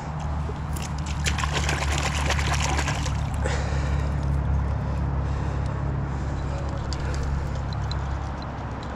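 Water splashing and sloshing in a shallow creek, busiest for a couple of seconds about a second in, then lighter, over a steady low rumble.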